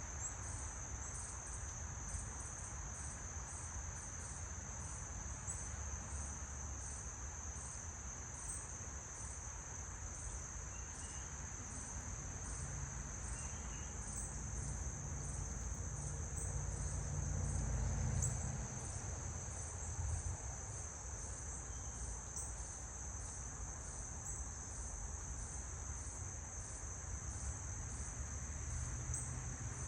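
Insects trilling: a steady high-pitched drone with a regular pulsing call above it, about two pulses a second. Beneath it runs a low rumble that swells about two-thirds of the way through.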